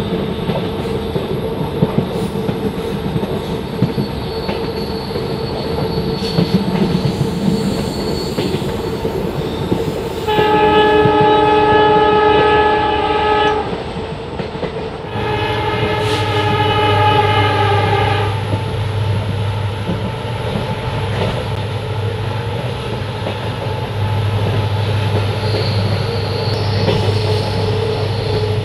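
Diesel-hauled passenger train running, heard from an open coach door: a steady rumble of wheels on the rails. The WDP 4D locomotive's air horn sounds twice, a long chord-like blast about ten seconds in and a second one shortly after. A low engine hum comes in about halfway.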